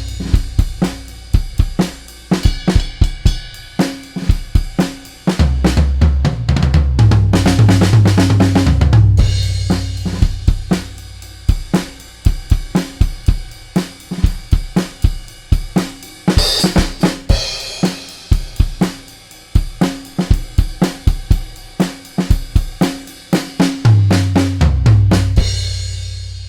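A drum kit playing a groove of kick, snare, hi-hat and cymbal hits with low bass notes underneath, recorded straight through a Warm Audio WA-412 mic preamp with no EQ or compression. It rings out and fades near the end.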